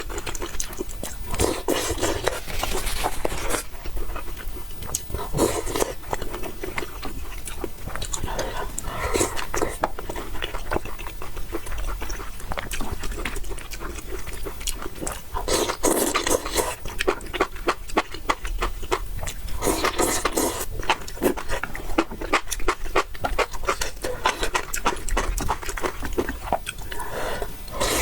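Close-miked eating of noodles: loud slurps every few seconds, with wet chewing and lip-smacking clicks in between.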